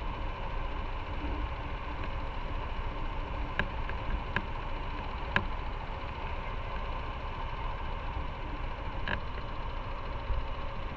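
Motorcycle engine running steadily, low and even like an idle, with a few short sharp clicks in the middle and near the end.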